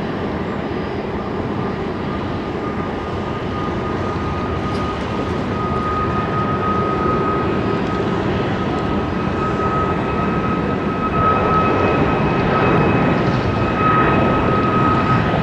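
Jet airliner engines running: a steady high whine over a broad rush, growing louder over the last several seconds.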